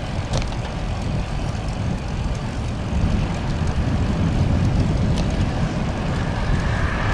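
Wind rumbling on the microphone while riding a bicycle along a road, a steady low rush, with a couple of brief clicks.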